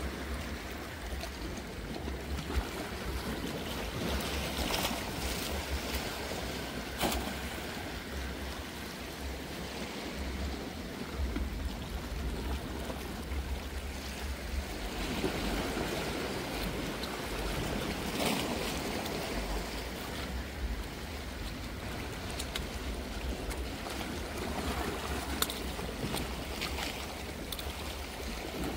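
Sea water washing against the shore, with wind rumbling on the microphone and a few sharp clicks.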